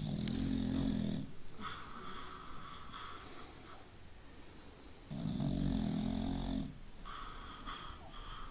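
Dog snoring in its sleep: two loud, low snores about five seconds apart, each followed by a fainter, higher whistling breath.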